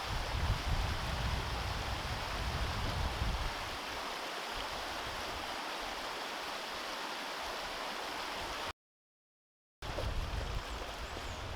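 Steady hiss of rain, with wind buffeting the microphone in low rumbling gusts during the first few seconds and again near the end. The sound cuts out completely for about a second near the end.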